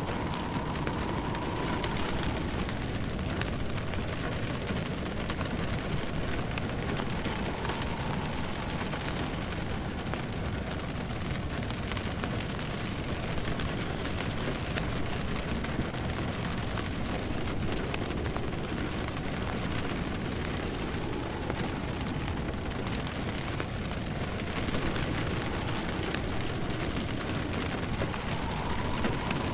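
Steady rain pattering, mixed with a fireplace crackling, and a faint tone that swells and fades every several seconds.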